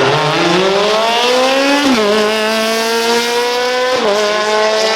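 A hill-climb race car's engine accelerating hard away from the start, its note climbing and then dropping sharply at two upshifts, about two seconds in and again near four seconds.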